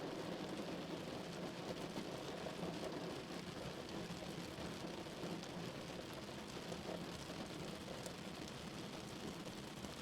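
Steady rain falling on a car's roof and windows, heard from inside the cabin as an even patter with faint drop ticks, over a low steady hum.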